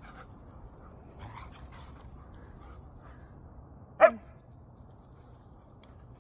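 A dog gives one short play bark about four seconds in, falling in pitch, from a dog still eager to keep playing.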